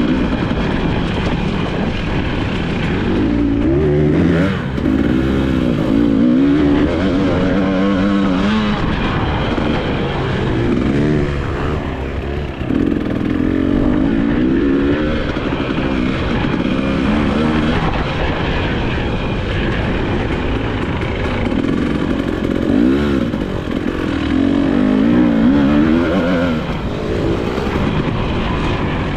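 2022 Husqvarna TE300i two-stroke enduro bike engine being ridden hard, revving up and down again and again as the throttle is opened and shut through the track's turns and straights.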